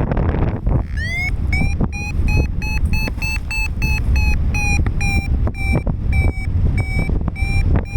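Paragliding variometer beeping its climb tone: one rising sweep about a second in, then rapid beeps at about two to three a second whose pitch shifts a little, the sign that the glider is climbing in lift. Heavy wind noise on the microphone underneath.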